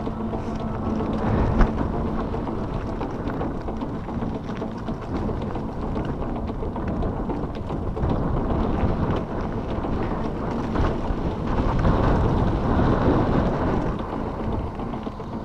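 Wind buffeting the microphone with a loud, rough rumble that swells briefly about a second and a half in and again near the end.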